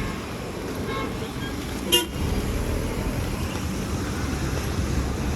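Street traffic with engines running throughout, and one brief vehicle horn toot about two seconds in.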